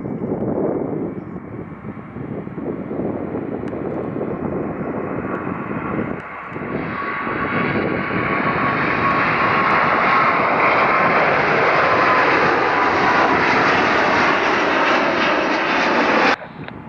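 Twin-engine Airbus jet airliner taking off under full thrust, its engine noise building to a loud steady rush with a high whine that falls slightly in pitch as it passes, then cutting off abruptly near the end.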